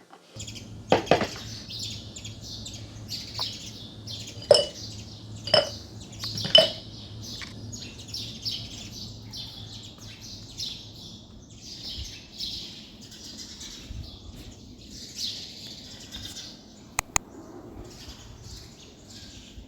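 Small birds chirping continuously, with a few sharp clinks about a second in and again between four and seven seconds in, over a low steady hum.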